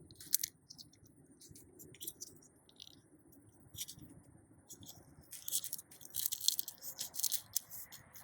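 Dry black bean plants and pods being handled, crackling and rattling in quick irregular clicks over a soft rustle, busiest in the second half.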